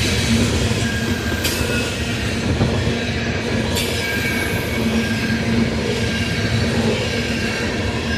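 Coal train cars rolling past, a steady loud rumble of steel wheels on rail with a faint high wheel squeal. Two sharp clicks come about one and a half and four seconds in.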